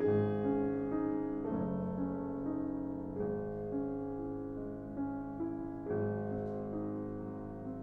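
Slow, gentle solo piano music, a soft repeating melody over sustained chords that change every second or two.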